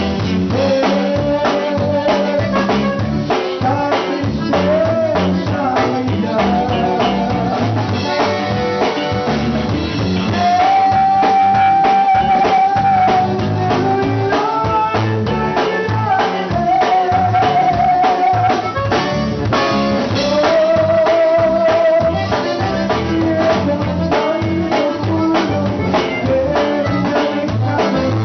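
Conjunto band playing an instrumental passage with a steady drum-kit beat, the lead instrument, typically a button accordion in conjunto, carrying long held melody notes.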